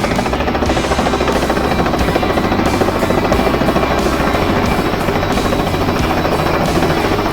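Crop-spraying helicopter flying, its rotor chop and engine running steadily, with background music over it.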